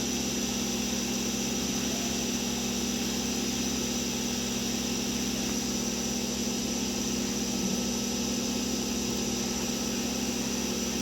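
A small motor running with a steady, even hum and a faint high whine.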